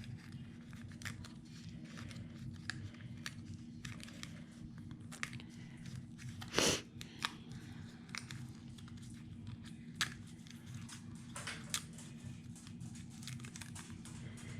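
Die-cut cardstock pieces being handled and sorted: light paper ticks and rustles, with one louder paper rustle about six and a half seconds in.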